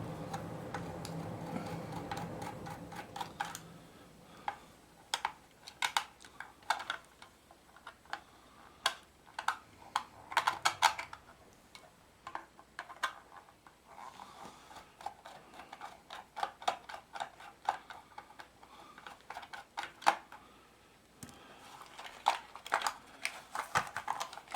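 Screwdriver turning out screws from the underside of a Lima model train locomotive: irregular light clicks and short scrapes of metal on plastic, with the model being handled.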